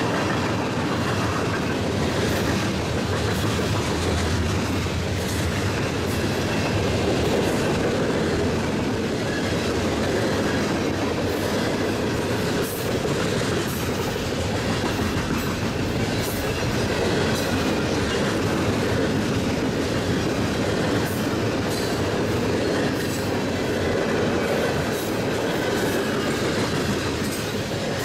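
Freight train cars rolling past with a steady rumble, their steel wheels clicking over rail joints at irregular intervals.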